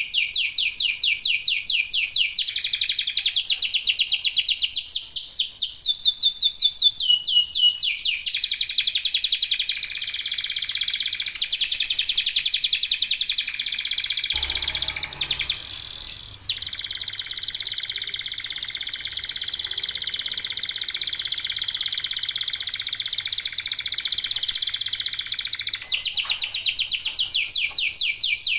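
Several local domestic canaries singing together in full song: long, fast rolling trills and rapid repeated chirps overlapping continuously, with a brief dip about halfway through.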